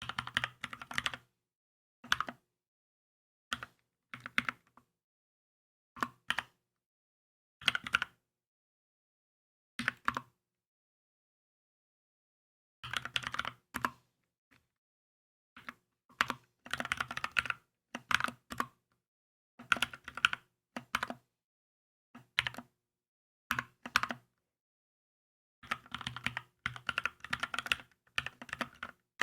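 Typing on a Keychron K2 mechanical keyboard in short bursts of keystrokes with silent pauses between them, becoming longer and denser runs in the second half.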